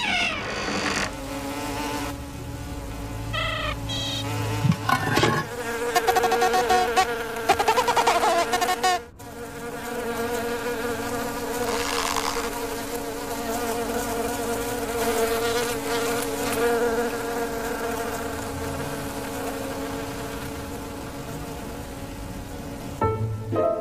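Insect wings buzzing in a cartoon soundtrack: a steady, droning buzz in several pitches, with a short break about nine seconds in.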